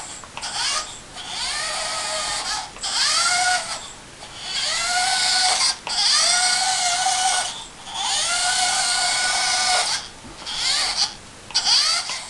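Small electric motors and gearing of a remote-controlled Fischertechnik monster truck whining in repeated bursts of a second or two. Each burst rises in pitch as the motors spin up, then holds steady until it cuts off.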